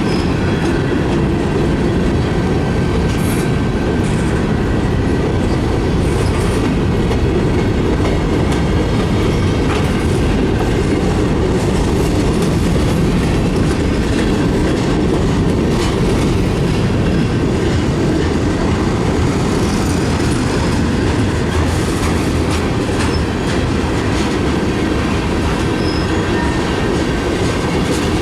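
Freight cars of a mixed freight train rolling past, a loud steady rumble with wheel clicks over the rail joints and a faint thin wheel squeal.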